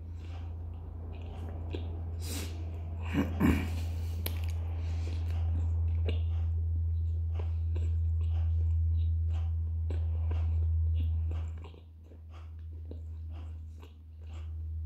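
Close-up chewing of a meat patty in soft bread: a stream of small wet mouth clicks and smacks, with a brief louder noise about three seconds in. A steady low hum runs underneath and dips twice near the end.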